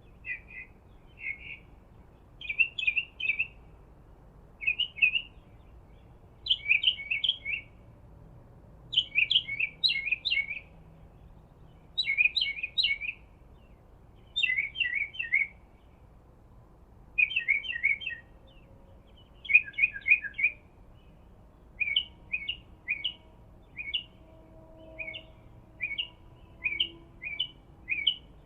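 Bird chirping in quick clusters of three to five high notes, repeated every two seconds or so, then single chirps about once a second near the end.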